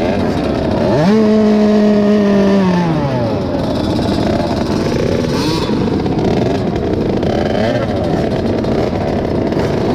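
Several small two-stroke 50cc motocross bikes running on the track, their engine notes rising and falling over each other. About a second in, one bike close by revs up hard, holds high revs for a second and a half, then drops off.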